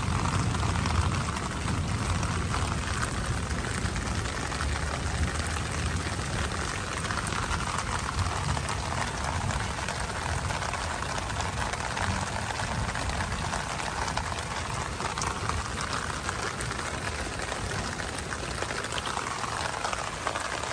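Steady rain falling, with storm runoff bubbling and running through the drainage system.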